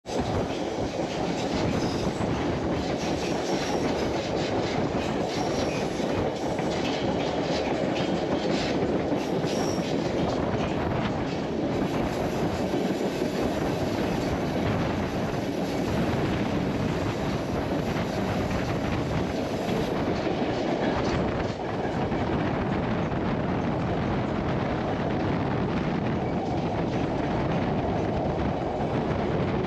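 Narrow-gauge passenger train rolling along the track: a steady rumble of the cars with faint, repeated clickety-clack of the wheels over the rails.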